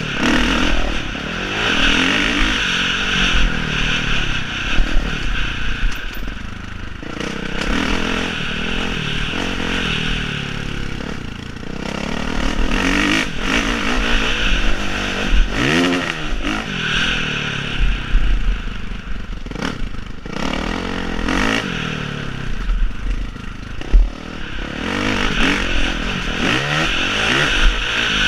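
Motocross bikes' engines running on the track, rising and falling in pitch as they rev up and back off, with one pass around the middle climbing and dropping sharply.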